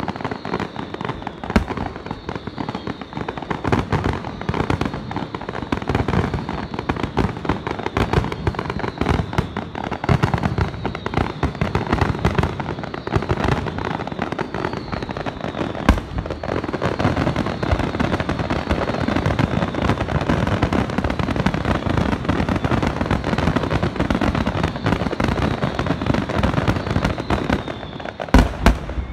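Fireworks display: a continuous barrage of crackling bursts and bangs from aerial shells and fountain fireworks, with one louder bang near the end.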